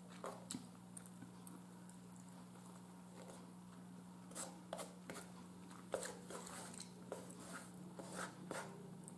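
Quiet close-up chewing with scattered short lip smacks and soft clicks as a fork works the food on a plate, over a steady low hum.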